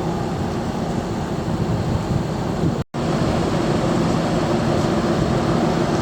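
Steady drone of a large car ferry underway: a low engine hum under a wash of wind and sea noise. It drops out abruptly for an instant near the middle and comes back slightly louder.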